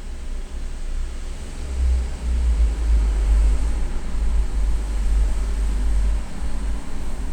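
Large industrial parking-garage exhaust fan running: a steady rushing noise over a deep rumble that swells for a few seconds in the middle.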